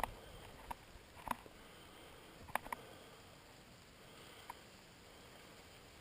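Light rain: a faint steady hiss with a handful of sharp, irregular drop taps close by, bunched in the first three seconds and one more a little after four seconds.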